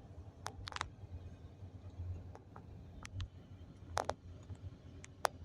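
Box air conditioner unit running with a steady low hum, with a few sharp clicks scattered over it.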